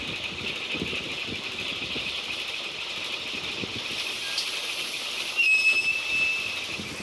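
Open box wagons of a Network Rail engineering train rolling past, their wheels rumbling and clattering on the rails, over a steady high-pitched whine. About five and a half seconds in a short, clear high tone sounds, the loudest moment.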